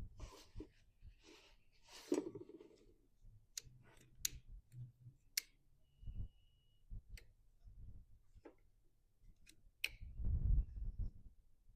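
Scattered sharp clicks and light rattles of small parts and tools being handled during mower repair, with a short steady high tone about halfway through and a louder low rumbling rustle near the end.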